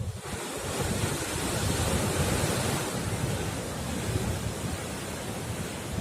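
Sea wave breaking and washing against a coral rock cliff: a sudden rush of surf that swells about two seconds in and then eases. Wind buffets the microphone throughout.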